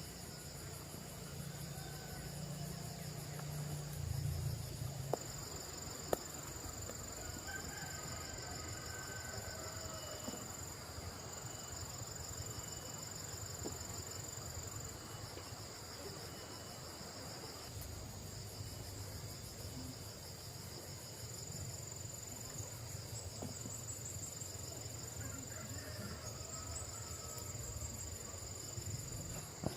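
Steady chorus of insects chirring at a high pitch, with a low hum over the first few seconds and two sharp clicks a few seconds in.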